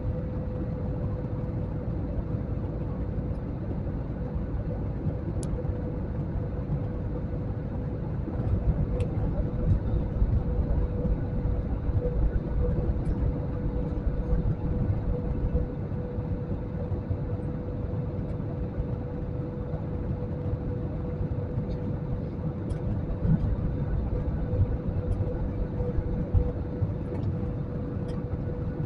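Jet airliner cabin noise in flight: a steady low rumble of engines and airflow with a constant hum running through it, and a few faint ticks.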